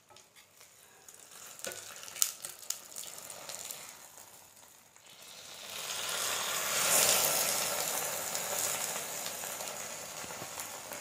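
Banana-leaf-wrapped chicken parcel sizzling on a hot oiled dosa griddle as it is opened and turned over partway through cooking. A few clinks and knocks of handling come around two seconds in. The sizzle then swells from about five seconds in, is loudest near seven seconds, and slowly eases off.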